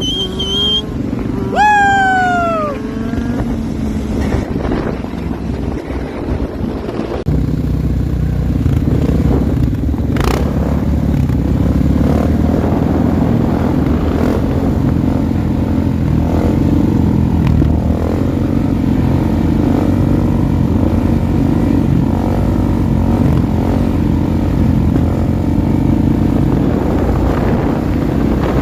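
Motorcycle engine running steadily, its pitch shifting a little with the throttle, getting louder about seven seconds in. In the first three seconds there are a few falling whistle-like tones, the loudest of them about two seconds in.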